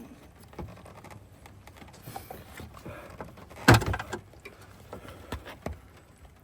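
Scattered clicks and knocks of air box and air filter parts being handled and fitted, with one loud knock about three and a half seconds in.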